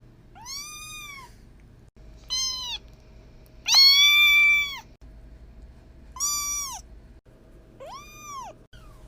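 A cat meowing five times, each meow an arching call that rises and falls; the third, about four seconds in, is the longest and loudest.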